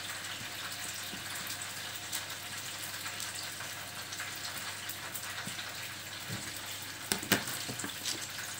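Belyashi, meat-filled dough pies, frying in hot vegetable oil with a steady sizzle. A couple of sharp knocks come about seven seconds in.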